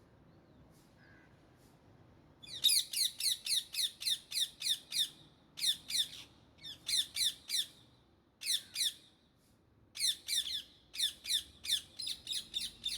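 Indian ringneck parrot giving bouts of rapid, shrill squawks, several calls a second, each sliding down in pitch. The calls start about two and a half seconds in, with short pauses between bouts.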